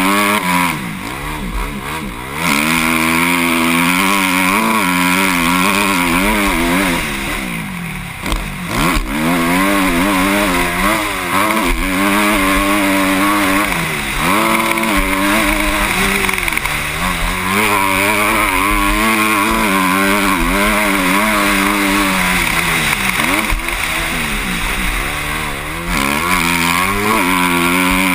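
Motocross bike engine heard from the rider's helmet camera, revving up and down again and again as the throttle is worked and the gears change. It backs off briefly about a second in, around eight seconds and again near the end, over a steady rush of noise.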